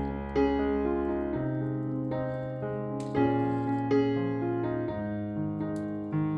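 Background piano music, slow and gentle, with sustained chords over a bass line.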